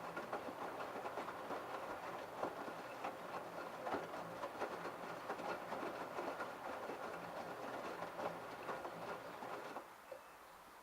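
LG F1222TD direct-drive washing machine drum turning the load during the prewash. A low motor hum runs under irregular clicking and clattering, and it stops suddenly near the end as the drum pauses.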